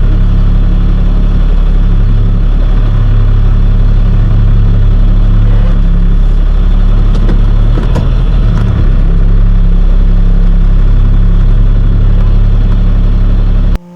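Box truck's engine and road noise inside the cab while driving, a loud steady drone. It cuts off abruptly just before the end.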